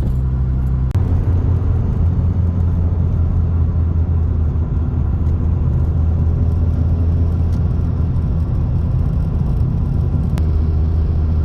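Hyundai Getz driving at steady cruising speed: a steady low engine and road drone. The note shifts about a second in and again near the end.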